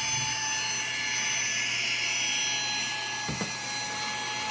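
Saker mini cordless handheld vacuum with a brushless motor running, a steady high whine over rushing air, as its narrow nozzle is drawn along the edge of a stair step. A brief knock about three seconds in.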